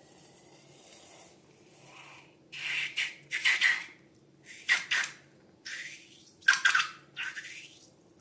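Slime being squished and worked by hand: a series of about six short, wet squishing noises in the second half.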